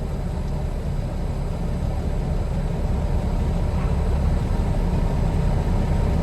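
Heavy tandem-axle truck's diesel engine running steadily while the loaded truck sits stuck in deep sand.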